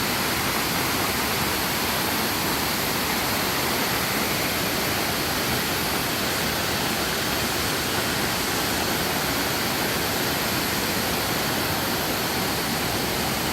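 A steady, even rushing hiss that holds at one level, with no distinct events in it.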